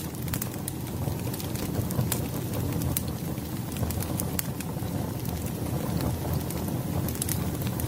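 Firewood burning: a steady low rumble of flames with frequent sharp crackles and pops at irregular intervals.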